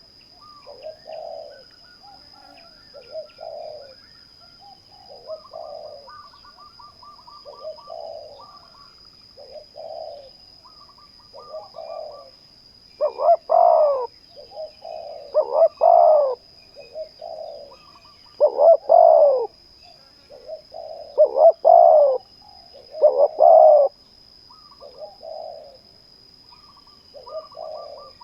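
Spotted doves cooing in repeated short phrases, one bird louder and nearer and another fainter, calling back and forth, as a decoy dove and a wild dove answer each other. A steady thin high tone and a few faint small-bird chirps sound over them.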